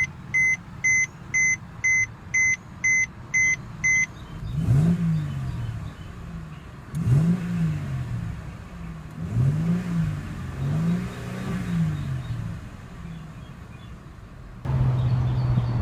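A 2014 Mercedes-Benz C350's 3.5-litre direct-injection V6 idles while an in-car warning chime beeps about twice a second for the first four seconds. The engine is then revved up and let fall back four or five times. Near the end a louder, steady idle takes over.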